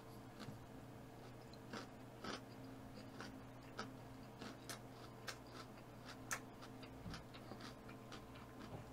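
A person eating quietly, with faint chewing and scattered soft mouth clicks and smacks every half second to a second, over a faint steady hum.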